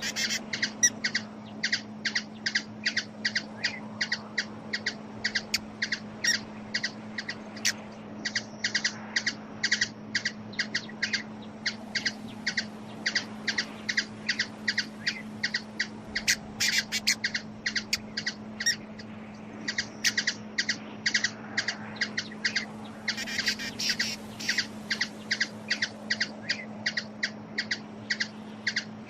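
A bird calling with a rapid series of short, sharp chips, about three a second, thicker in two spells near the middle and later on. A steady low hum runs underneath.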